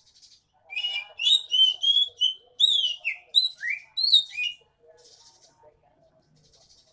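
Oriental magpie-robin (kacer) singing in full voice: a run of loud, quick whistled notes sweeping up and down for about four seconds, then only soft, scratchy chatter.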